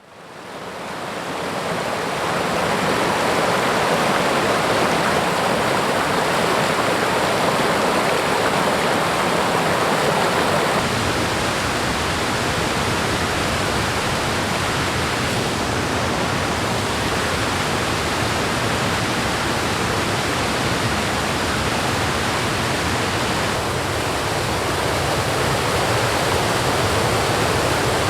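Rushing water running steadily, fading in over the first two seconds.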